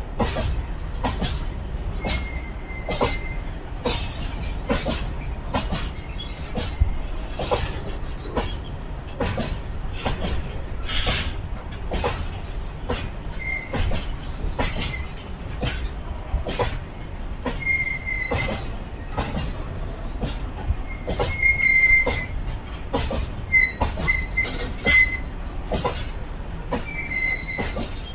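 Freight train wagons rolling past: a steady rumble with wheels clacking over the rail joints, and short high-pitched wheel squeals now and then, more of them in the latter half.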